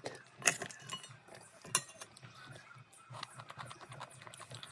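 A run of small sharp clicks and light clinks, with two louder knocks about half a second and nearly two seconds in.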